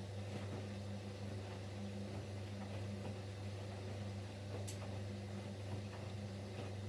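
Siemens Siwamat Plus 574 washing machine's drum motor running steadily during the rinse with fabric softener, turning the drum with a steady hum. A single short click comes about two thirds of the way in.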